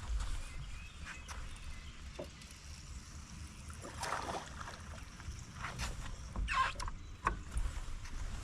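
Small fishing boat at rest on the water: a steady low rumble with a few scattered short clicks and knocks. A pitched motor hum has just died away before them.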